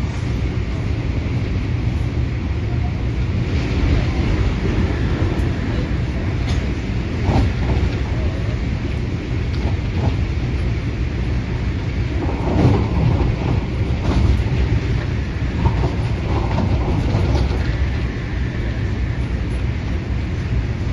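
MTR Adtranz-CAF electric multiple unit train running along the line: a steady, heavy rumble of wheels on track with a few brief clatters.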